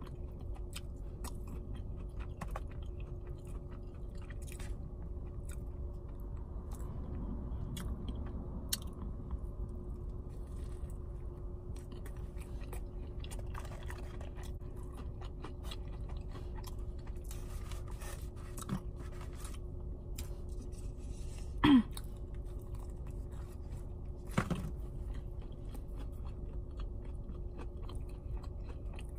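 Close-miked chewing of a fried chicken finger and fries meal: wet mouth clicks and small crunches over a steady low hum. A brief louder sound with a short falling pitch comes about two-thirds of the way in, and a smaller one a few seconds later.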